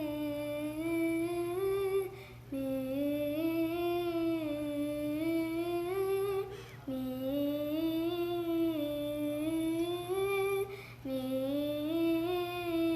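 A child humming a wordless melody in long phrases that slowly rise in pitch and fall back, taking a short breath between phrases about every four seconds.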